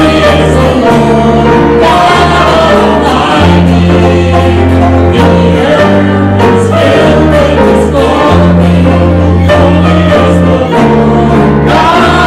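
Church worship music: a band and congregation singing a worship song together, over sustained bass notes that change every second or so.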